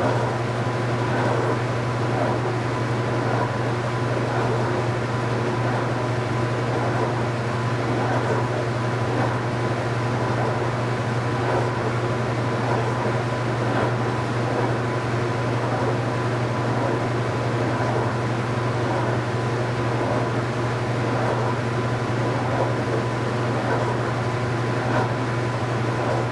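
Speed Queen top-load washing machine running with a steady low motor hum, a thin steady whine and a constant mechanical whir.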